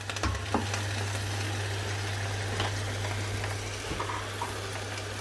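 Potato chunks sizzling in hot, oil-released spiced masala in a large aluminium pot, a steady frying hiss right after the potatoes go in. A few light clicks sound near the start, over a low steady hum.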